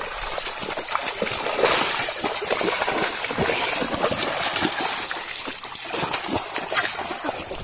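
Water splashing and sloshing in shallow muddy water, a dense run of many small, irregular splashes.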